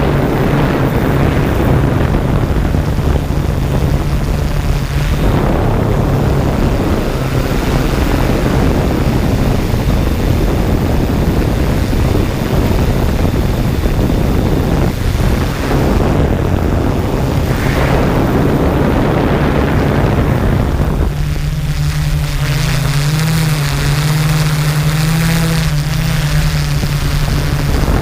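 Small quadcopter drone's propellers and motors running with a steady hum and rushing noise. In the last several seconds the motors' pitch wavers up and down.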